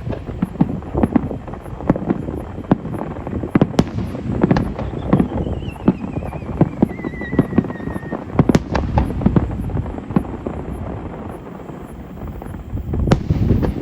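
Fireworks display: repeated sharp bangs of shells bursting, over dense crackling. A whistle falls slowly in pitch about five seconds in.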